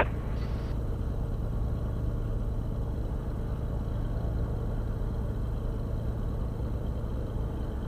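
Beechcraft Bonanza's six-cylinder piston engine running steadily at low power in the cockpit, a constant low hum before the takeoff run.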